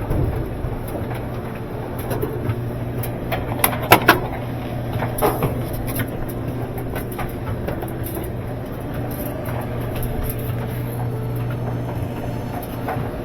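Scattered clicks and knocks of metal and plastic parts being handled during washing machine disassembly, with a sharp double clack about four seconds in, over a steady low hum.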